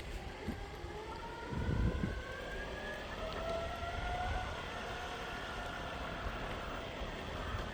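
Electric skateboard rolling on honeycomb wheels: a steady low rumble of wheels and wind with a bump about two seconds in. Over it, a high whine rises slowly for a few seconds and then holds.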